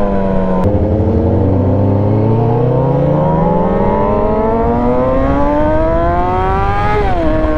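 Yamaha R6's inline-four engine under way: the revs fall, a gear change breaks in about a second in, then the revs climb steadily for several seconds before dropping sharply near the end as the next gear goes in.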